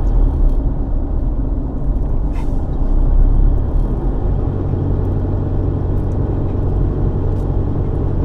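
Car driving on the road: a steady low rumble of engine and tyre noise. About four seconds in, a steady low engine hum comes in under the rumble.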